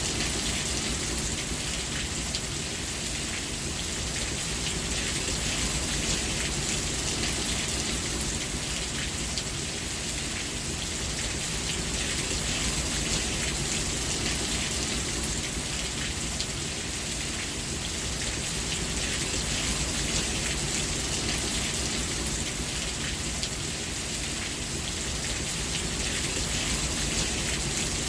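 Steady rain falling, a dense hiss of drops with fine pattering ticks on a surface and a low rumble underneath.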